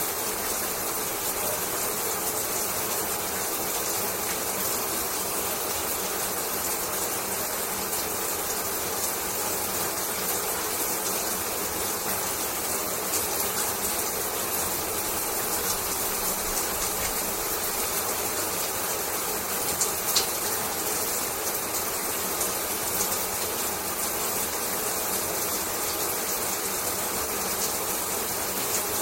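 Shower water running steadily, a dense even hiss of spray with fine irregular spatters and ticks of droplets landing. One slightly sharper splat stands out about two-thirds of the way through.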